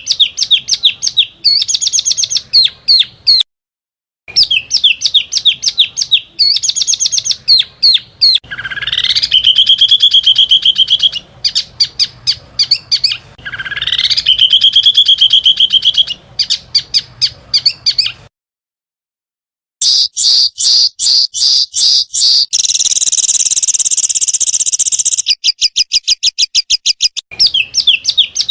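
Small songbirds singing loud, rapid repeated notes and chattering trills in a spliced recording that cuts abruptly to silence twice. Twice a whistle rises and then settles into a held trill.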